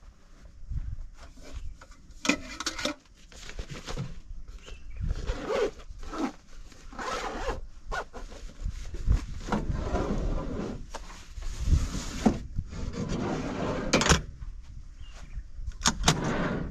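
Irregular rustling and scraping, as of gear or fabric being handled, in bursts of a second or so, with a couple of sharp clicks near the end.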